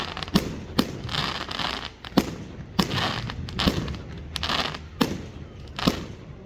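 Fireworks exploding in quick succession: sharp bangs roughly every half second to a second, with crackling hiss trailing after several of them.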